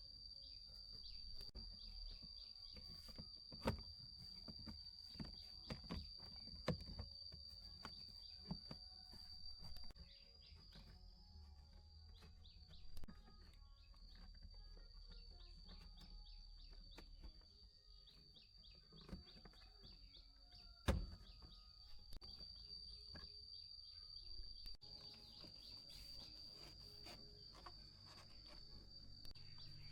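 Faint ambience of scattered light clicks and knocks over a steady high-pitched whine, with occasional bird chirps.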